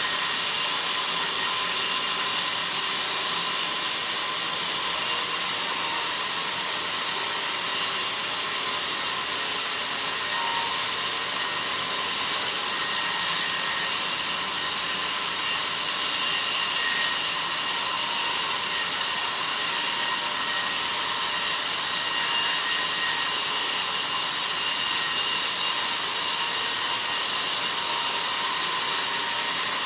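Sawmill band saw cutting through a log, a steady sawing noise that runs without a break.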